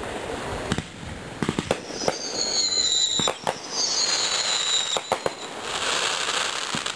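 Fireworks show: sharp bangs and pops of bursting shells, with two long high whistles in the middle that each split into a rising and a falling pitch, and a hissing crackle near the end.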